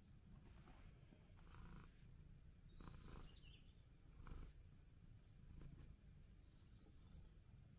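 Near silence: faint outdoor background rumble, with two short high bird chirps about three seconds and about four and a half seconds in.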